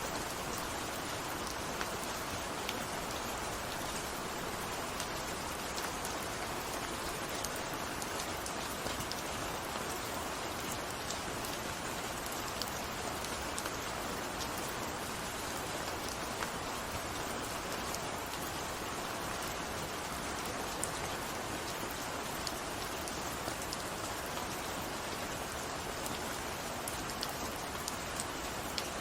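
Steady rain falling on a surface, an even hiss scattered with small individual drop ticks.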